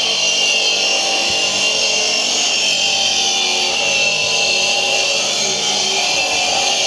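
Power saw cutting stone, running steadily with a continuous high grinding whine.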